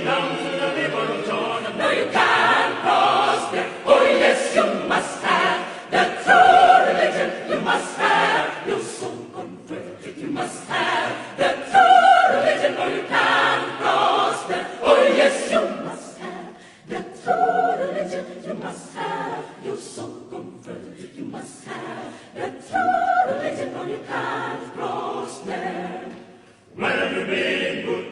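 Mixed choir singing, with a short break in the sound about a second and a half before the end.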